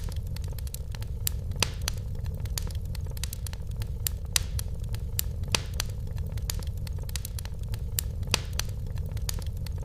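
Fireplace fire crackling: irregular sharp pops and snaps, a few louder than the rest, over a steady low rumble of the burning fire.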